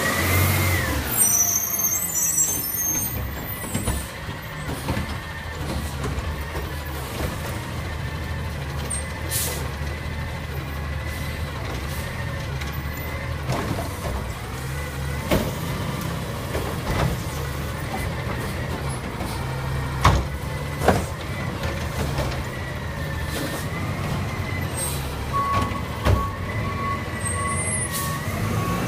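Garbage truck running, with a steady low engine rumble and a high, wavering whine that rises in pitch at the start. Several knocks and clanks are heard, along with short hisses of air, and a pulsing beep near the end.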